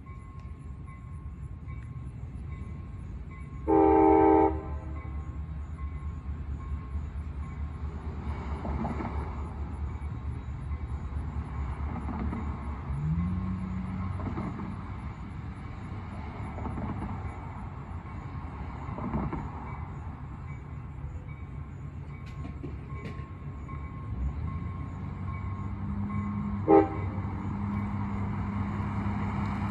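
Diesel locomotive rumbling steadily. Its horn sounds once for about a second, four seconds in, and gives a short toot near the end. About halfway through, the engine note rises as the locomotive throttles up.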